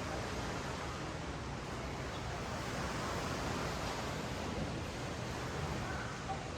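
Ocean surf washing up a sandy beach, a steady rush of breaking waves.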